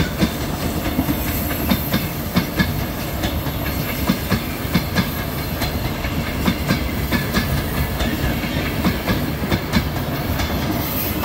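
Double-decker passenger coaches rolling past, a steady rumble of wheels on rail with irregular sharp clicks as the wheels cross rail joints.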